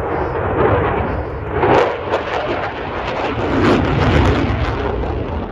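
Loud aircraft engine noise from a display flypast: a rough, rumbling roar that swells about two seconds in and again past the middle.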